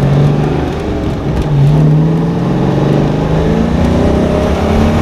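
Twin-turbo 5.3-litre LS V8 in a Fox-body Mustang accelerating: the engine note drops about a second in, then climbs steadily for about three seconds.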